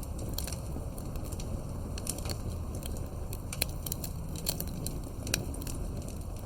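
Fireplace crackling: irregular sharp pops and snaps, a few a second, over a low steady rumble.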